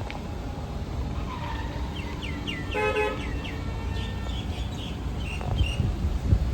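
Street traffic rumbling steadily, with a brief vehicle horn toot about three seconds in.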